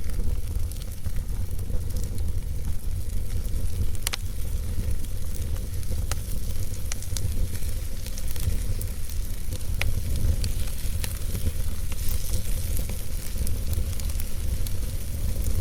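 Wood fire in a fireplace crackling, with scattered sharp pops and snaps over a steady hiss and low rumble.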